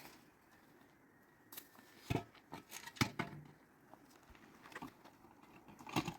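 A few sharp knocks and clicks at irregular intervals over a low background hiss, the loudest about two, three and six seconds in.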